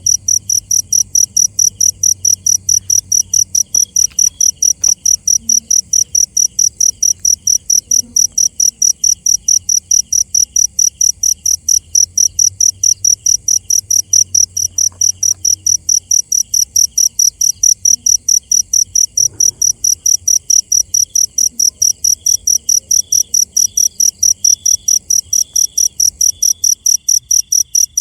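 A cricket chirping: a loud, high-pitched chirp repeated evenly several times a second without a break. Beneath it is a fainter, lower pulsed call from another insect or frog.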